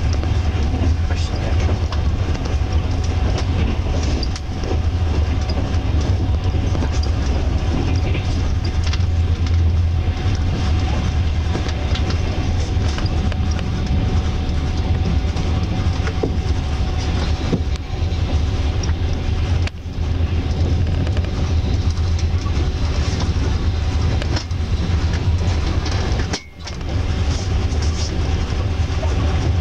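Passenger train carriage running at speed, heard from inside: a steady, loud low rumble with scattered clicks of the wheels on the rails and a faint steady hum. The noise dips sharply for a moment near the end.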